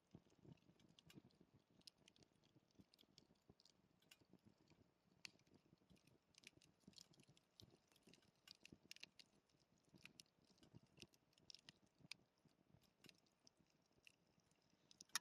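Faint campfire crackling: burning wood giving off scattered, irregular small pops and snaps over a low hiss.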